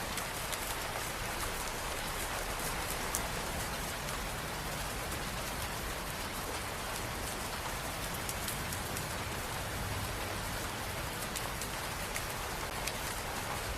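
Steady rain falling on hard surfaces, an even hiss with many small drop ticks scattered through it.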